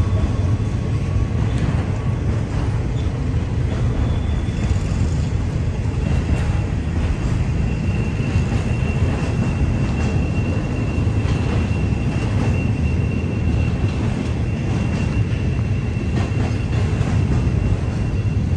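Train rolling past with a steady low rumble; from about six seconds in, a thin, steady high-pitched squeal of wheel flanges on the curve rides over it.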